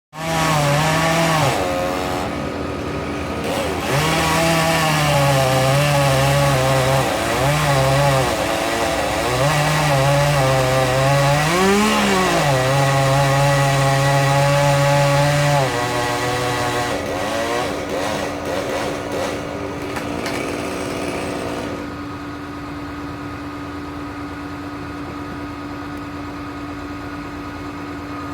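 Two-stroke chainsaw running at high revs as it cuts wood, its pitch dipping and picking up again several times. About sixteen seconds in the saw stops, leaving a steady hum of another engine running underneath.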